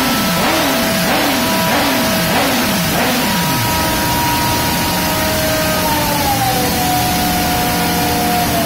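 Honda CBR1000RR inline-four through an Arrow full-system exhaust, revving up and down about twice a second for the first three seconds or so, then settling to a low, uneven running. Underneath, a steady dyno roller whine drops in pitch about six seconds in as the roller slows.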